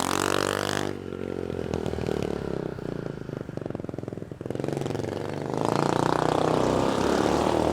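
Stomp 90cc four-stroke pit bike engine running: the revs drop about a second in, it ticks over more quietly for a few seconds, then revs up again near the end.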